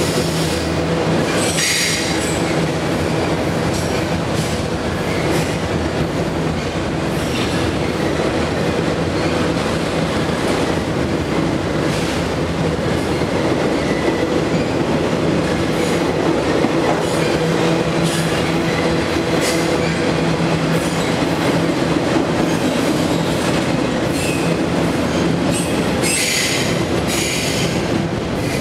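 Enclosed autorack freight cars rolling past at track side: a steady rumble and clatter of steel wheels on rail, with brief high-pitched wheel squeals shortly after the start and again near the end.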